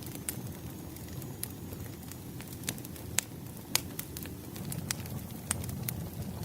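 Wood fire crackling, with sharp pops scattered irregularly, the two loudest about three seconds and nearly four seconds in, over a steady low rush of the burning logs.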